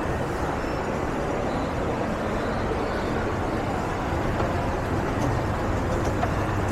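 Steady street traffic noise: a continuous hum of vehicles passing on a city road.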